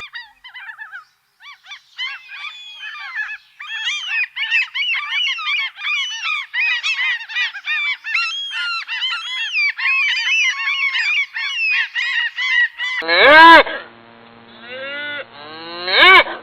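A flock of birds calling over one another: many short, rapid, overlapping calls. About 13 s in the sound changes to louder single calls with a deeper, fuller tone.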